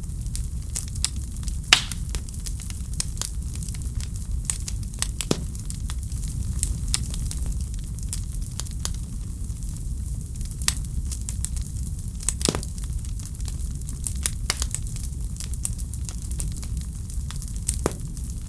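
Wood fire in a fireplace crackling: irregular sharp pops and snaps, with a few louder ones about two, five and twelve seconds in, over a steady low rumble.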